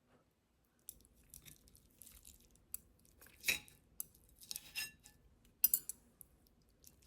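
Scattered light clinks and taps of utensils against dishes, with louder clinks about three and a half seconds in and again near six seconds.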